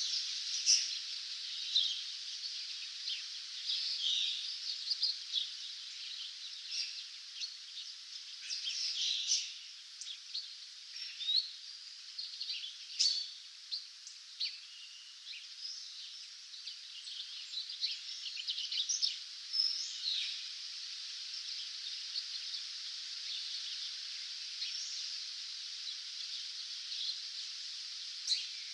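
Wild songbirds chirping and singing in a dawn chorus, many short calls from several birds over a steady high hiss; the calls are thickest in the first two-thirds and thin out near the end.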